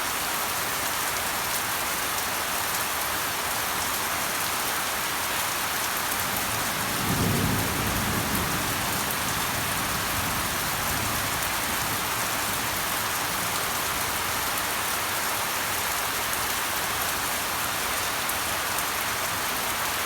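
Steady rain falling and pattering on surfaces, with a low rumble of thunder about seven seconds in that fades over a couple of seconds.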